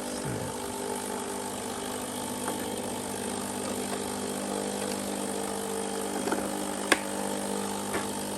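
Breville BES990 Oracle Touch espresso machine running its descale cycle, its pump humming steadily. A sharp click about seven seconds in and a lighter one a second later.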